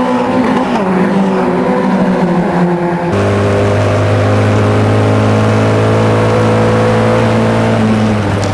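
Racing engines on track: one engine's note falls as it slows over the first three seconds, then the sound changes abruptly to a steady, loud engine note held at constant revs until near the end.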